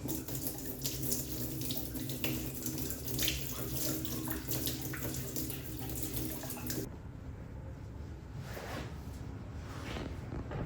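Water running steadily from a tap into a basin, shut off abruptly about seven seconds in.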